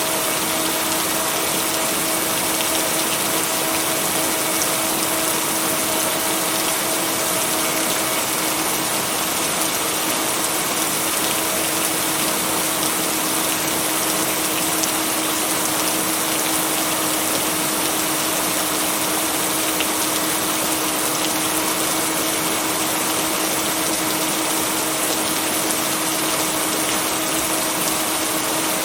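Steady, unbroken rain noise blended with white noise. Two constant low tones from a binaural-beat layer hum beneath it.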